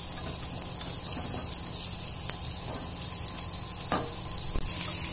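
Thick-cut onions frying in hot oil in a kadai: a steady sizzle, with a couple of faint clicks.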